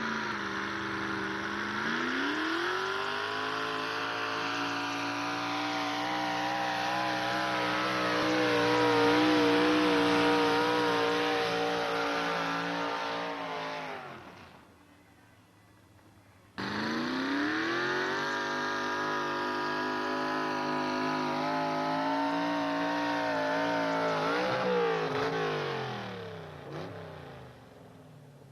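Pulling truck's engine revving up and held at high revs under load during a truck pull, then falling away. After a short quiet break it is heard again at high revs, and it winds down near the end.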